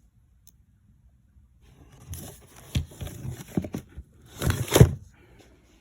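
Battery cables and charger clamps being handled: a run of clicks and knocks with rustling from about two seconds in, the loudest knocks near the end.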